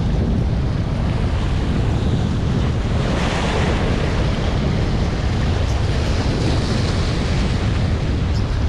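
Strong wind buffeting the microphone over the steady wash of sea waves, swelling about three seconds in.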